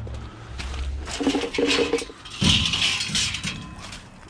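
Scrap metal clanking and rattling as it is handled, with many short knocks and a louder clatter past the middle.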